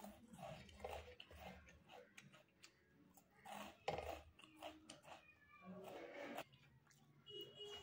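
A man chewing a mouthful of rice and chicken curry, with soft wet mouth and lip sounds and a few short pitched murmurs.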